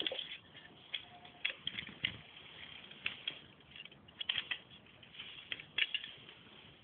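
Kittens play-fighting: irregular light taps, scratches and scrabbling of paws and claws, several a second.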